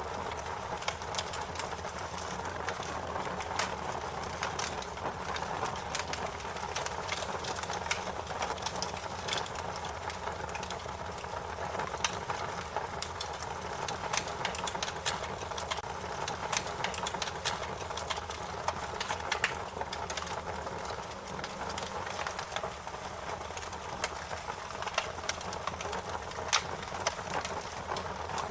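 Wood fire burning with a steady hiss and frequent irregular sharp crackles and pops.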